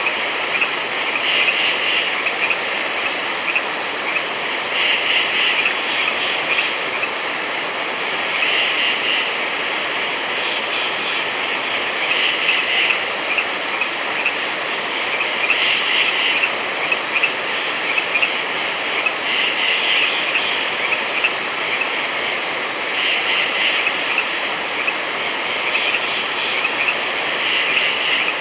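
Night-time frog chorus: a steady, dense background of calling, with a louder group of high-pitched croaks lasting about a second that comes back roughly every three to four seconds.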